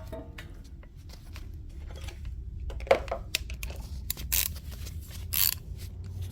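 Irregular metallic clicks, with a few short scraping rasps about three, four and a half and five and a half seconds in: hand tools working on the 14 mm nuts that hold the exhaust catalytic converter.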